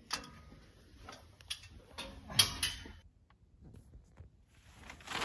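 A few scattered clicks and knocks of tools and parts being handled, the loudest about two and a half seconds in, with a brief rustle near the end.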